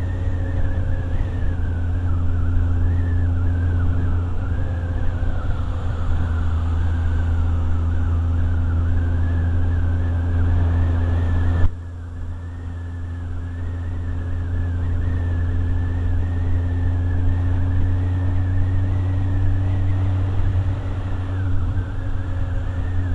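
Motorcycle engine running at steady road speed, with a strong low hum and a high wavering whine above it. About twelve seconds in the sound drops suddenly, then builds back up gradually, the engine pitch rising slightly near the end.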